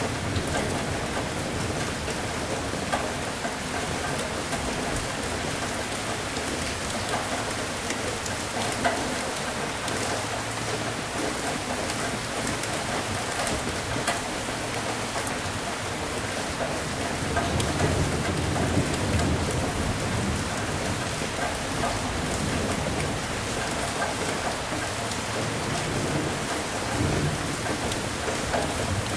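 Steady heavy rain with a crisp patter of drops, and low rolls of thunder rumbling underneath that swell and fade several times, loudest a little past the middle.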